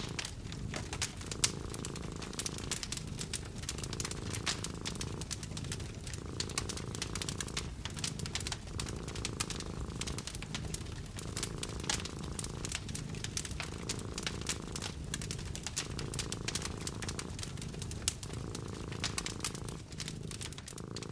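A cat purring steadily, the purr dipping briefly with each breath about every two seconds, over a wood fire crackling with frequent small snaps and pops.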